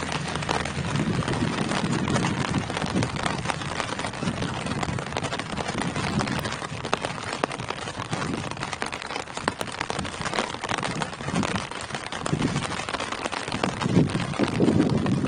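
Steady rain falling on tree foliage: a dense, even patter with sharper individual drops ticking through it, and a low rumble swelling near the end.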